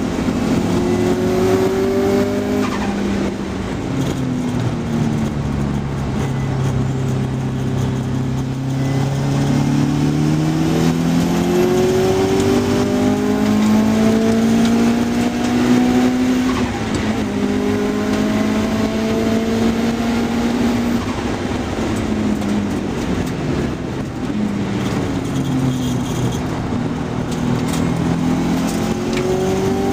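Car engine heard on board at speed on a race circuit, revving up through the gears and easing off for corners, its pitch climbing, dropping at each gear change and climbing again several times.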